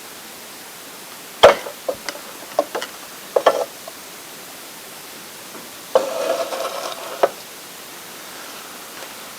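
Handling noises: a sharp knock about a second and a half in, a few lighter clicks after it, then about a second of rustling.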